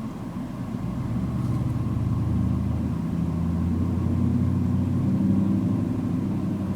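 Car engine running with road noise while driving, growing louder about a second and a half in and then holding steady.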